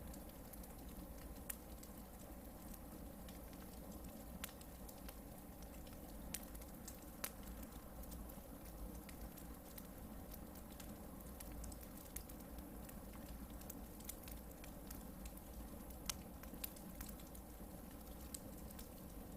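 Hardwood campfire burning faintly: a low steady hiss with scattered sharp crackles and pops every second or few.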